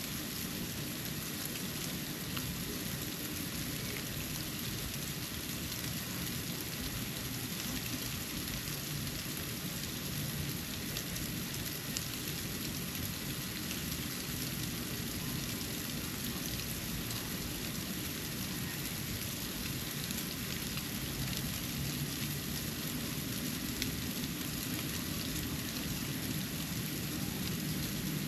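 Falling snow ticking and pattering on surfaces in a steady hiss, with a few sharper ticks, over a low steady rumble.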